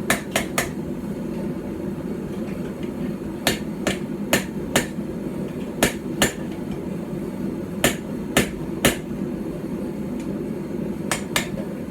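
Light hand-forged hammer, about 12 ounces, striking a knife blank on a small stump anvil in short groups of two to four sharp blows with pauses between: hammering in the knife's bevels.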